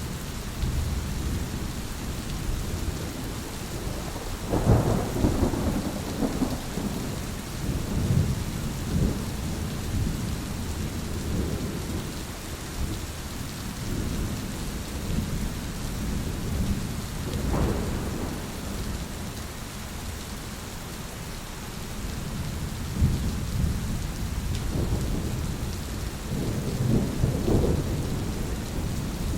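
Steady rain with rolling thunder: low rumbles swell about five seconds in, again around the middle, and once more near the end.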